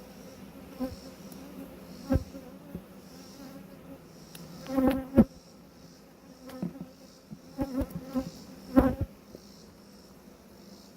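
Honeybees buzzing around an open hive, a steady hum with louder swells as individual bees fly close past the microphone. A few sharp knocks sound among them, the loudest near the middle and near the end.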